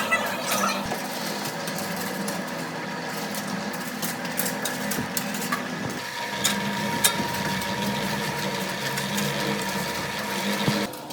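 A small motor running steadily, with scattered clicks and knocks. Its hum shifts about six seconds in and cuts off suddenly near the end.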